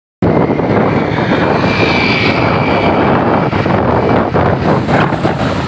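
A motorcycle on the move: its engine running under a loud, steady rush of wind over the microphone.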